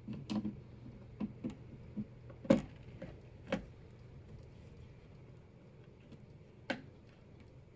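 Plastic clicks and knocks of power-supply cables and their connectors being handled and pushed into a motherboard, a quick run of them in the first few seconds, loudest about two and a half seconds in, with one more sharp click near the end.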